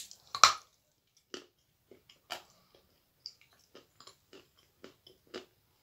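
A person biting into a dry chunk of edible clay, the loudest sound about half a second in, then chewing it with short crackly clicks about twice a second.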